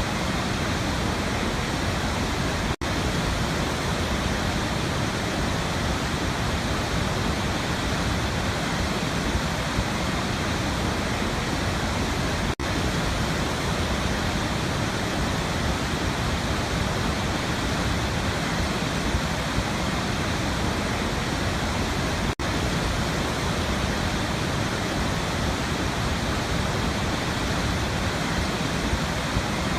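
Waterfall rushing in a steady, dense roar of water noise, with three momentary dropouts about ten seconds apart.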